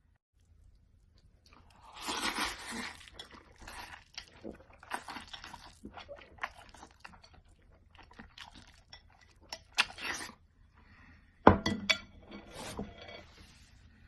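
Food being crunched and chewed in irregular bursts, with light clinks of dishes and a sharp knock about eleven and a half seconds in.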